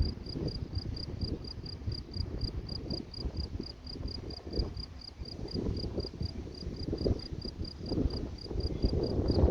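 A cricket chirping steadily, about four chirps a second, over a low, uneven rumble.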